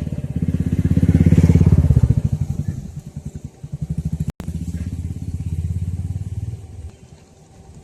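A nearby engine chugging with a fast, even beat. It is loudest about a second and a half in, eases off, then runs on steadily before stopping about seven seconds in. The sound cuts out briefly just after four seconds.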